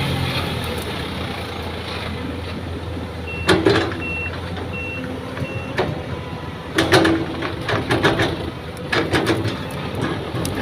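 Heavy truck engine running steadily while its reversing alarm beeps four times in a row. Several short, sharp sounds come over the engine, mostly in the second half.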